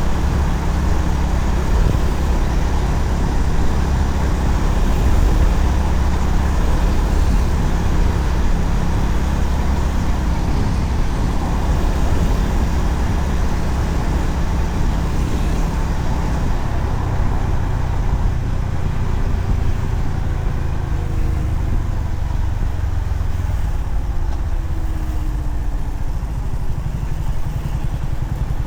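Honda CB350RS single-cylinder engine running while riding at road speed, under heavy wind rumble on the microphone. In the second half a faint tone falls steadily in pitch, and the sound eases slightly near the end.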